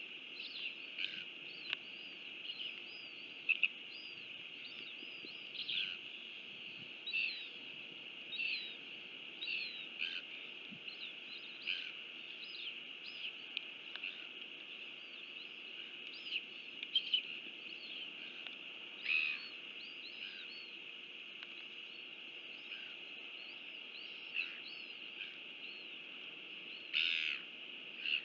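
Small birds chirping over and over in short, quick calls above a steady high hiss, with a few louder calls now and then.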